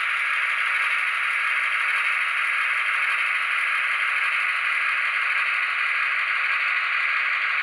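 A Soundtraxx Tsunami decoder in an HO-scale GP15-1 model plays EMD 645 non-turbo diesel prime mover sound through the model's small onboard speaker as the locomotive creeps at speed step 1. The sound is steady and thin, with no deep bass.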